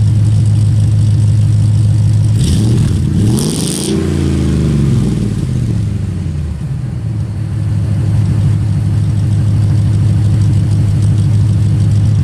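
5.7 Hemi V8 breathing through long-tube headers and an aftermarket catback exhaust, idling with a deep steady note. About two and a half seconds in, the throttle is blipped once: the pitch rises for about a second and a half, then falls back to idle over the next couple of seconds.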